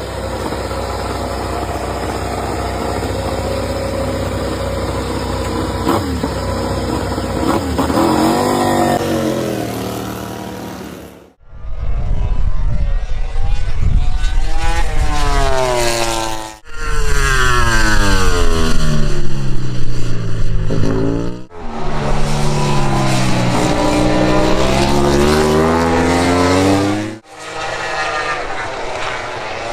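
MotoGP racing motorcycles at high revs, their engine notes climbing sharply through the gears and falling as they brake and pass. The audio is several short clips joined by abrupt cuts.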